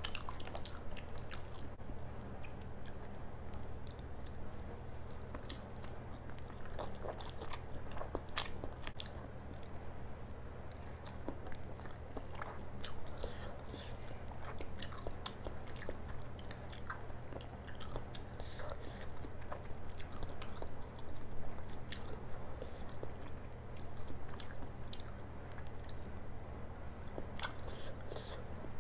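Close-miked chewing and biting of food, with frequent sharp wet mouth clicks and some crunches, over a steady low hum.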